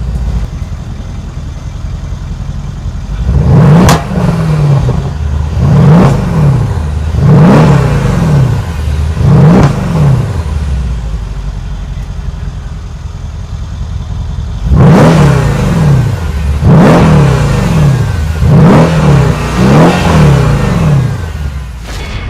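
Mercedes-AMG E63 S 4Matic's twin-turbo 5.5-litre V8 idling and revved in two sets of about four quick blips, each rising and dropping back to idle.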